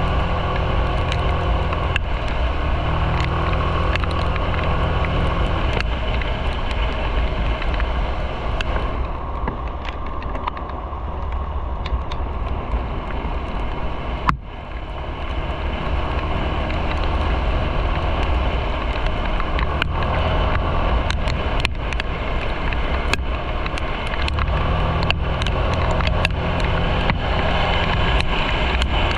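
Motorcycle engine running under way, with wind and road noise. The engine note is stronger near the start and again near the end, and weaker in between.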